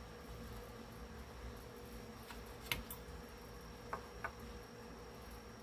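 Faint, steady buzzing hum in the background, with a few light clicks and taps from handling small parts between about two and four seconds in.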